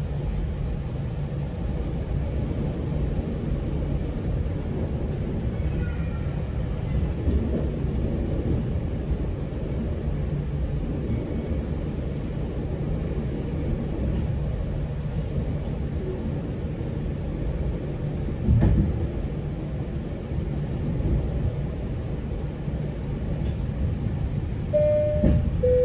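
Steady rumble of a GO Transit passenger train running along the track, heard from inside a coach. There is a single clunk about two-thirds of the way through and a two-note falling chime near the end.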